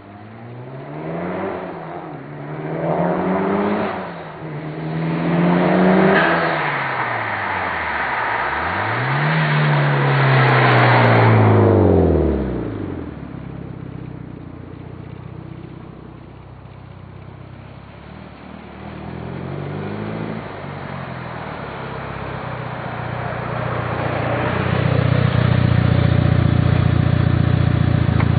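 Mitsubishi Lancer Evolution VIII's turbocharged four-cylinder engine through an aftermarket turbo-back exhaust, revving up and down several times, then climbing to a loud peak about ten seconds in before falling away. Near the end it settles into a steady, loud low drone.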